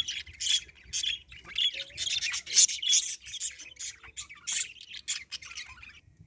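Budgerigars chattering and squawking, a dense run of short, high calls that stops suddenly about six seconds in.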